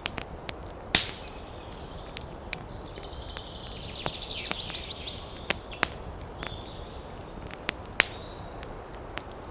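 Campfire crackling: irregular sharp pops of burning wood, the loudest about a second in and near the end. Over it, a high buzzy call from a forest animal sounds from about three to five seconds in and again briefly about seven seconds in.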